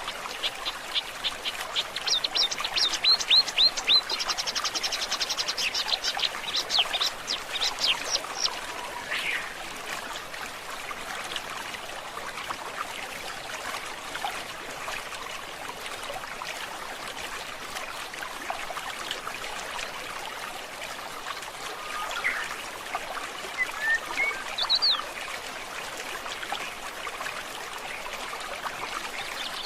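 Stream water trickling steadily. Over it, a bird sings a fast series of repeated high notes from about two to nine seconds in, and gives a few short chirps later.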